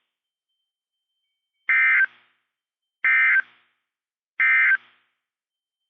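NOAA Weather Radio SAME end-of-message data tones: three short, identical bursts of buzzy two-tone digital data, about 1.4 s apart, marking the end of the warning broadcast.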